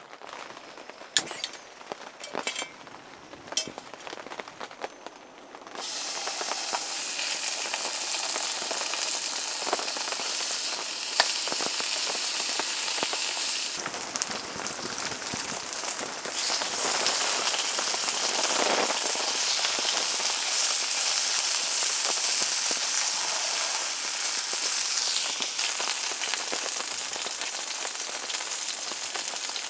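Pork belly sizzling loudly in a hot pan, the sizzle starting suddenly about six seconds in and then running steadily; a few sharp clicks and taps come before it.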